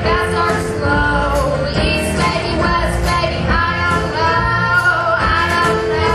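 A live band playing, with a woman singing long held notes over a steady bass line.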